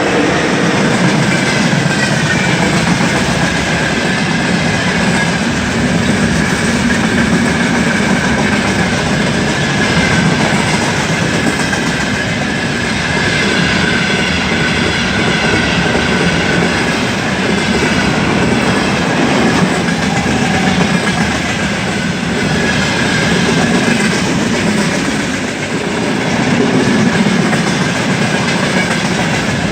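Freight train rolling past at speed, its wagon wheels clattering steadily over the rails, with a faint wavering high ring from the wheels.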